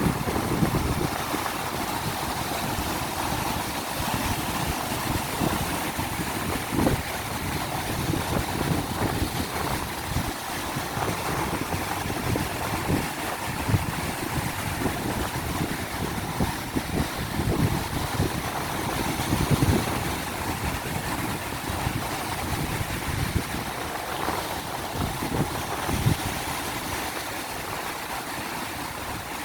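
Ocean surf breaking and washing up the beach in a steady wash of noise, with strong wind gusting across the microphone in irregular low rumbles.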